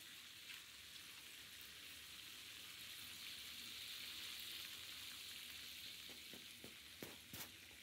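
Faint, steady sizzling of peri peri chicken pieces frying in oil in a pan, with a couple of soft knocks near the end.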